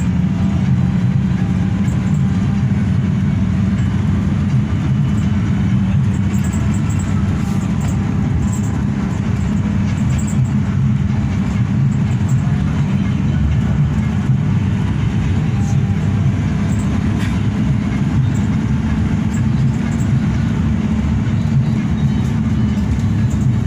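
Hino RK8 bus on the move: a steady low drone of engine and road noise, heard from inside the cabin, with a few faint light ticks.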